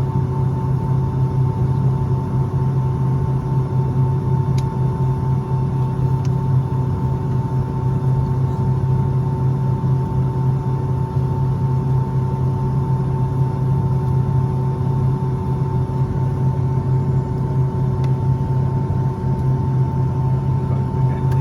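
Steady cabin drone inside a Boeing 757-200 after landing: a low hum with two steady whining tones above it, from the engines and air-conditioning.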